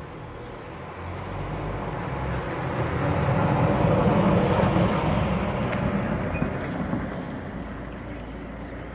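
A road vehicle passing by: a steady rush that builds from about a second in, is loudest around four seconds, and fades away near the end. Faint bird chirps are heard over it.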